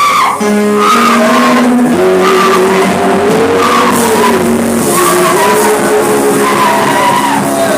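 Worship music: sustained keyboard or organ chords under high voices singing or wailing in long, sliding notes.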